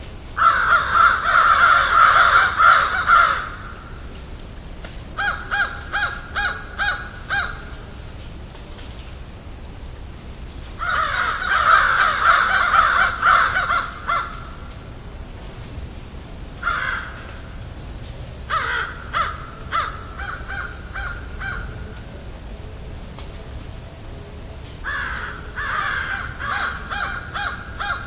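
Crows cawing in repeated bouts, sometimes several calling at once in a dense chorus, sometimes in series of separate harsh caws, over a steady hiss.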